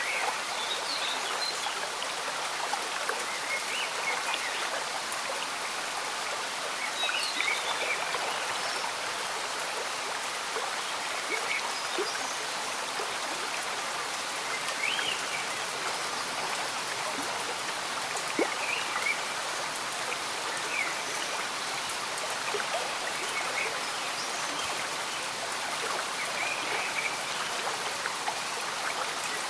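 A slow stream bubbling steadily under gentle rain falling on foliage, with short high chirps from small animals every few seconds.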